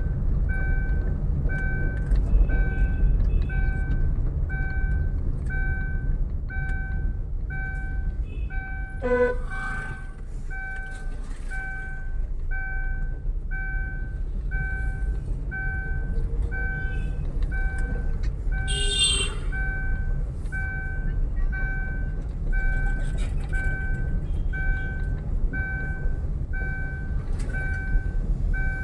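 Electronic warning beeps repeating about once a second over a steady low vehicle engine rumble. There is a sharp knock about nine seconds in and a brief high-pitched blast around nineteen seconds.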